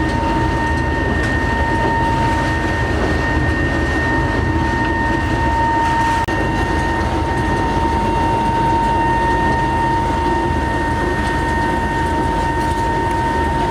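Workshop machinery running steadily, with a constant high whine over a dense rumble.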